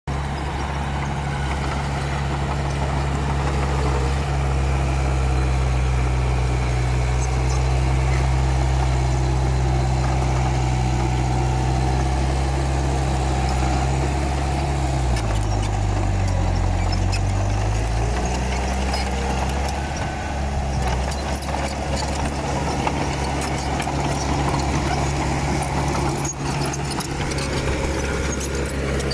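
Komatsu D31P bulldozer's diesel engine running steadily. About halfway through, its note drops for a few seconds and then comes back up, typical of the engine pulling down under load as the blade pushes dirt.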